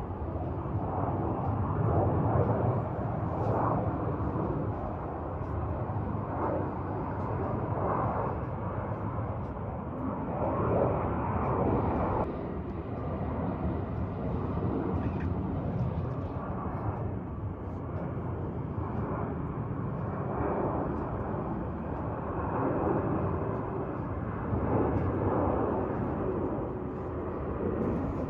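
Jet airliner on landing approach, a continuous engine rumble that swells and eases.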